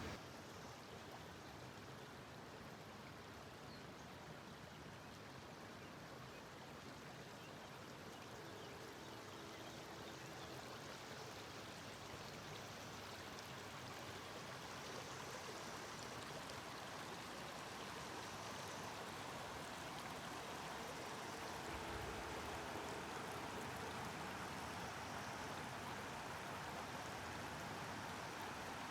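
Steady rushing noise that slowly grows louder, with a faint low hum twice.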